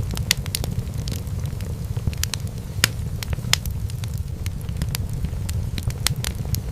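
Fireplace fire crackling: frequent, irregular sharp pops and snaps over a steady low rumble of the flames.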